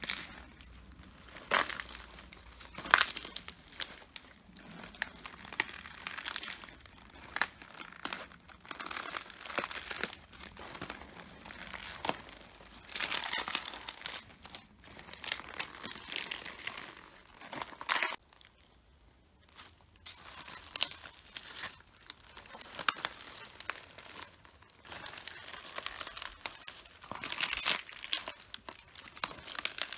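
Red cabbage leaves crunching and crackling underfoot as someone walks on them, in irregular bursts of crackling with a short pause a little past halfway.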